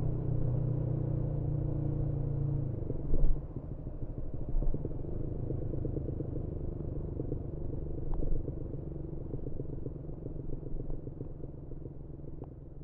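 Yamaha MT-125's single-cylinder engine through a GPR aftermarket exhaust, running at a steady pitch and then dropping to an even, pulsing idle about three seconds in, with a short louder blip just after the drop. The idle slowly fades.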